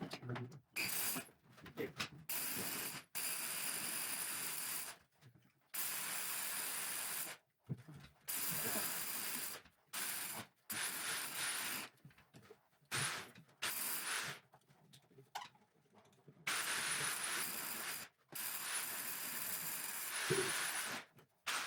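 Power drill running in a series of short bursts, about one to three seconds each, starting and stopping abruptly, as a hole is drilled through the attic's wooden structure.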